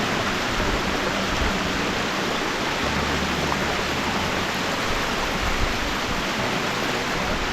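Small waterfall splashing steadily into rock pools: an even, unbroken rush of falling water.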